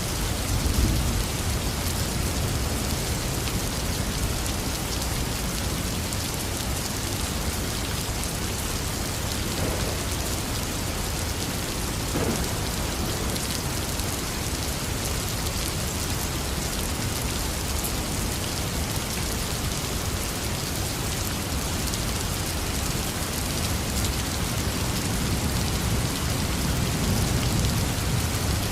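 Heavy rain falling steadily, with low thunder rumbling about a second in and again near the end.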